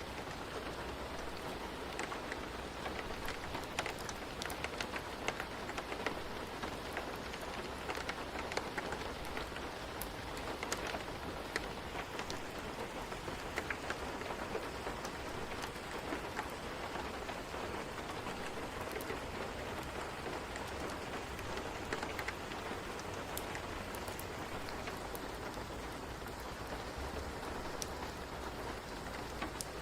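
Steady rain ambience: an even hiss of rainfall dotted with many small sharp ticks and crackles.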